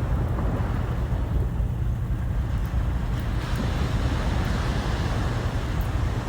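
Sea waves washing on the shore with wind buffeting the microphone, a steady deep rumble without a break.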